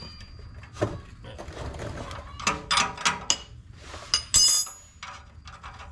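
Metal tool work on an exhaust oxygen sensor: an open-end wrench clicks and knocks against the sensor and exhaust pipe. A sharp, ringing metallic clink comes about four seconds in.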